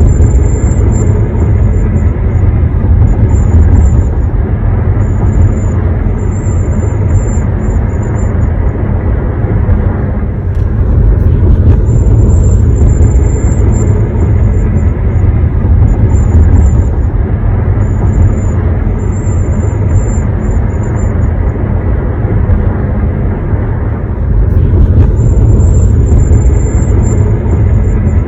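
Road rumble inside a 2021 Honda HR-V's cabin while driving, with a thin, high-pitched whistle that comes and goes in stretches of a second to a few seconds. The owner calls it a piercing whistle and takes it for a design flaw; the dealer says it is normal.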